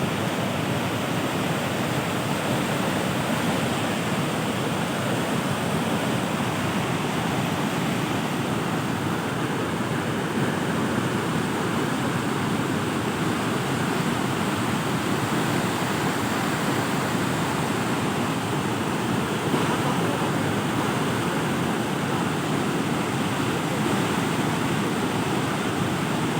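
Heavy flowing water in a large tank, a steady rushing noise that holds at the same level throughout.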